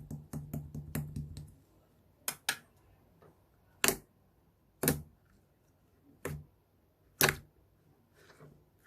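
Slime being handled and pressed, with a quick run of small clicks in the first second and a half, then single sharp pops about a second apart.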